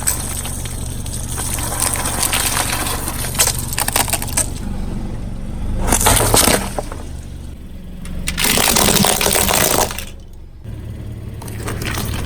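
Objects cracking, crunching and breaking under a car tyre: a run of dense crackling, then two separate bursts of crushing noise, over a low steady hum.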